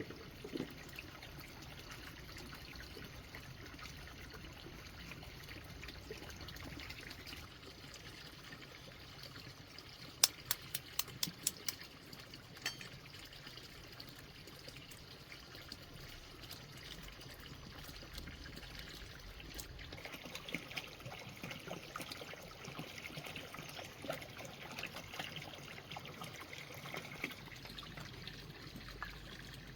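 Water trickling steadily, with a quick run of sharp clicks or knocks about ten seconds in.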